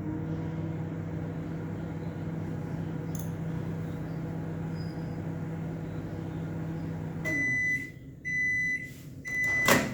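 Panasonic convection microwave oven running on micro power with a steady hum. The hum stops about seven seconds in and the oven beeps three times, about a second apart, to signal that the cooking cycle has finished. A loud sharp click follows near the end.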